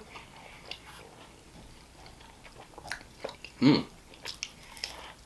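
A man chewing a bite of Philly cheesesteak egg roll with his mouth closed: faint wet chewing and small mouth clicks, with one short vocal sound from him a little past halfway.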